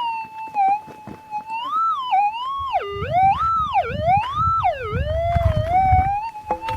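Minelab GPX 5000 metal detector's audio: a steady threshold hum that, about two seconds in, swoops up and down in pitch several times as the coil passes over a buried metal target, then settles back to the steady hum. A low rumbling noise runs beneath the swoops in the middle.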